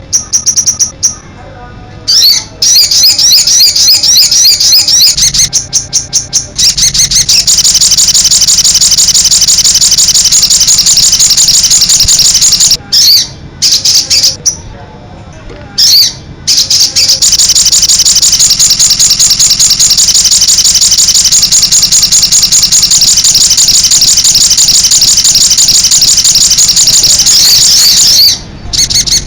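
A sogon bird singing a loud, rapid, high-pitched chattering song in long unbroken runs, with a few short pauses. It is played as a training recording to set other sogon birds singing.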